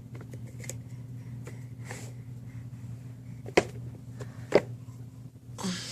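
Two sharp knocks about a second apart, with a few fainter clicks, over a steady low hum.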